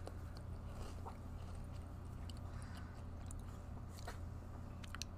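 A person chewing a crunchy snack chip with the mouth closed: a few faint, sparse crunches over a steady low hum.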